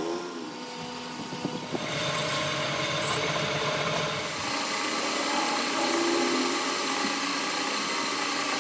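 A workshop power tool running steadily on metal, with a broad hissing noise that swells about two seconds in.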